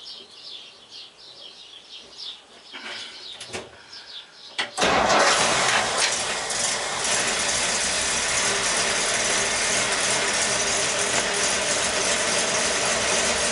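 1959 Ford ice cream truck's engine starting from cold on the choke: it catches suddenly about five seconds in, briefly loudest at the catch, then settles into steady running on the choke with no throttle.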